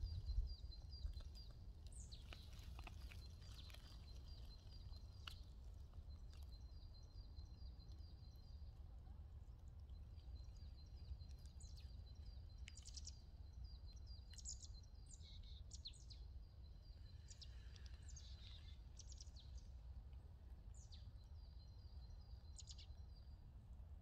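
Faint chirping of small birds: quick repeated high trills and short sharp calls, over a low steady rumble.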